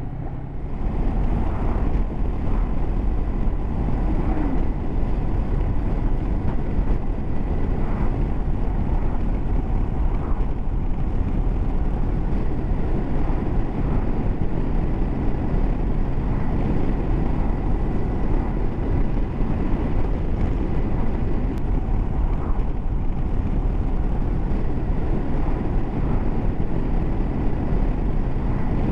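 Honda CB500X motorcycle ridden at a steady speed: a constant rush of wind on the microphone over low road and engine rumble.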